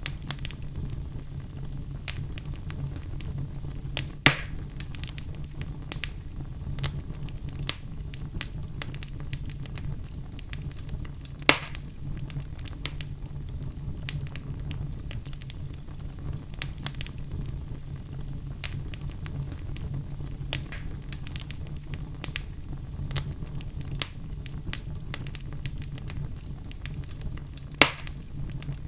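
Wood logs burning in a fireplace: a steady low rumble of flames with frequent small crackles and three sharper pops, about four seconds in, near the middle, and near the end.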